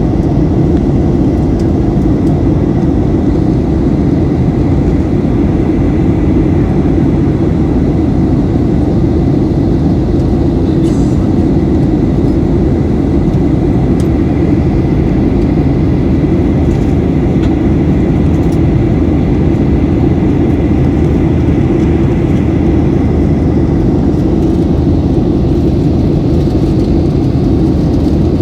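Airliner cabin noise in flight: the steady, deep drone of the jet engines and the air rushing past the fuselage, with a faint thin whine held over it.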